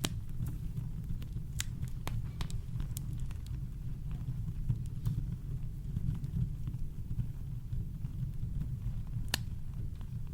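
Campfire crackling: scattered sharp pops and snaps of burning wood over a steady deep rumble of brown noise, with a louder pop about nine seconds in.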